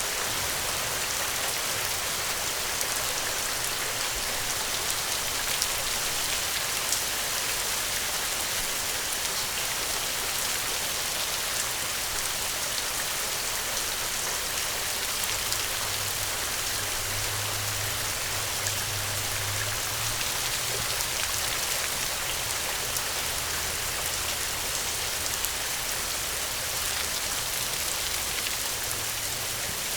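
Steady rainfall, an even wash of rain with fine scattered drop ticks, and a faint low hum for a few seconds in the middle.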